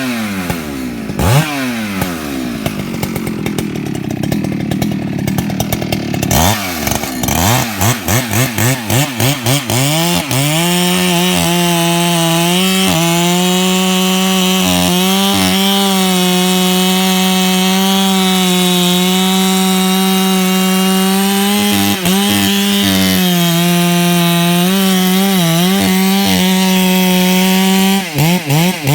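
Ported Husqvarna 395XP two-stroke chainsaw with a tube exhaust: blipped in short revs, then held at full throttle for about eighteen seconds as it cuts through a big log, the pitch dipping briefly now and then under load, and blipped again near the end.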